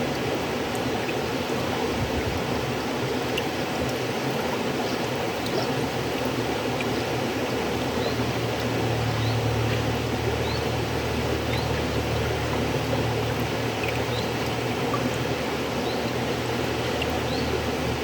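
River water flowing steadily over stones, with a low rumble under it and small splashes and gurgles here and there.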